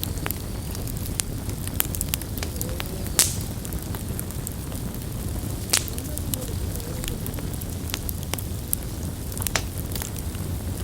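Campfire crackling, with scattered sharp pops of burning wood, two louder ones about three and six seconds in, over a steady low rumble.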